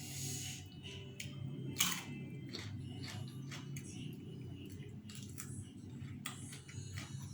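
A person chewing and eating noodle soup, with scattered short sharp clicks and crunches over a steady low hum.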